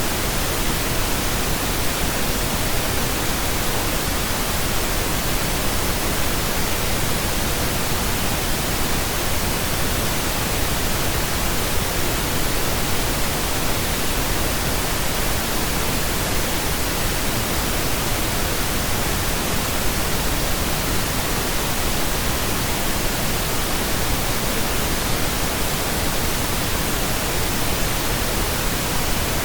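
Steady, unchanging pink noise: an even hiss with no tones or breaks.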